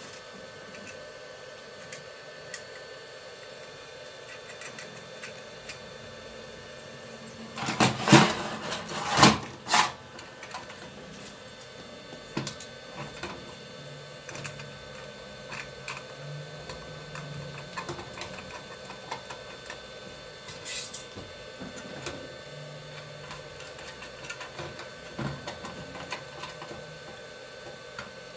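Workshop bench-work sounds: scattered light clicks and taps over a faint steady hum. A short run of louder scraping strokes comes about eight seconds in, and one more near the end.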